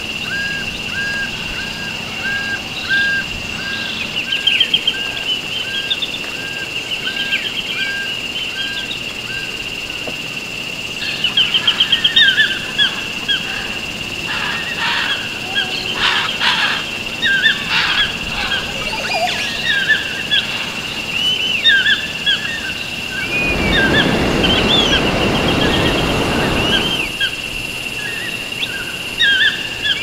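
Several wild birds calling and singing: short chirps and trills, with one bird repeating a clear note about twice a second for the first ten seconds, over a steady high-pitched drone. About 23 seconds in, a noisy rushing sound rises and lasts about three seconds.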